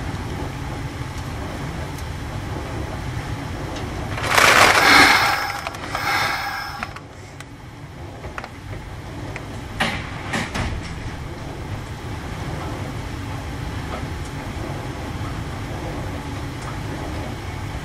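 A Kintetsu 1021 series electric train standing at the platform before departure, with a steady low hum. About four seconds in comes a loud burst of rushing noise, followed by a shorter one about two seconds later. A couple of sharp clicks follow near the middle.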